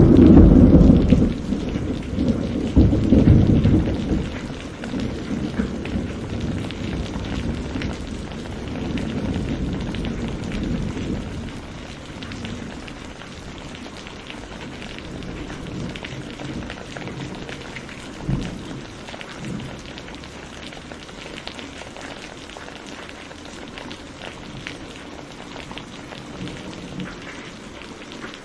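Thunder rolling loudly at the start, swelling again a few seconds in and dying away over about ten seconds, over steady rain pattering on a surface. A short, fainter rumble of thunder comes a little past the middle while the rain goes on.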